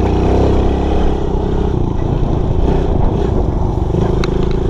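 Small dirt bike engine running close up, its pitch lifting a little near the start and turning rough and uneven in the middle.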